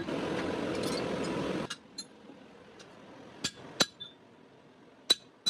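A steady noise cuts off abruptly about a second and a half in. After it come a few scattered ringing clinks of a hammer striking metal, as at a blacksmith's anvil.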